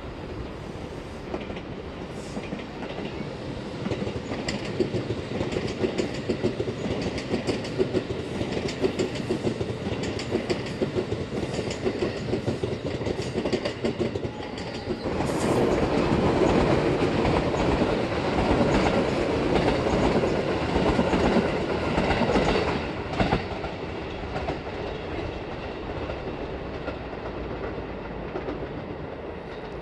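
An electric commuter train running past below on the JR Tokaido Line: a steady rumble with wheels clacking over rail joints. It grows louder about halfway through, then drops back sharply a few seconds before the end.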